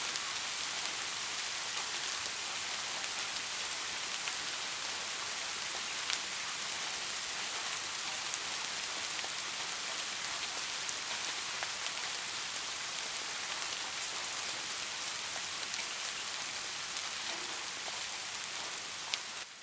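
Steady rain falling: a dense, even hiss with an occasional sharp tick of a single drop.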